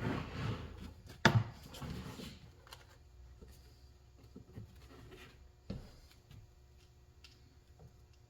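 Hand-tool work on a motorcycle tyre and rim: rubbing and scraping, a sharp knock just after a second in, then a few light taps.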